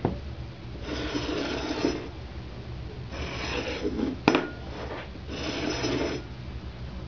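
A cat scratching: three rasping strokes, each about a second long, roughly two seconds apart, with a sharp knock just after the second.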